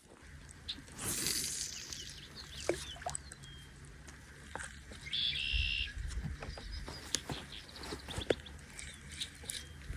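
Outdoor pond ambience: birds chirping at intervals, with a denser burst of calls about halfway through, over a steady low rumble and scattered small clicks.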